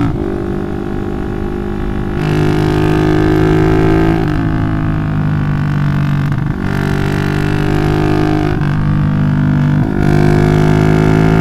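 Loud single-cylinder four-stroke engine of a bored-up 180cc Yamaha Jupiter MX, running through a Requsan aftermarket exhaust while riding. The exhaust drone climbs in pitch and dips briefly several times, about every two seconds, getting louder after the first couple of seconds.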